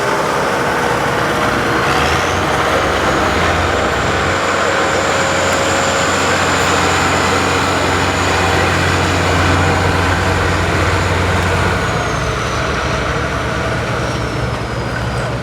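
Allis-Chalmers 190XT tractor engine running hard under load in a tractor pull, with a high steady whine over the engine. About two seconds in the engine and whine pick up; about twelve seconds in both ease off.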